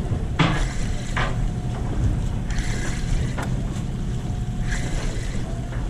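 Steady low rumble of a fishing party boat's engine, with wind on the microphone and a few short clicks or knocks.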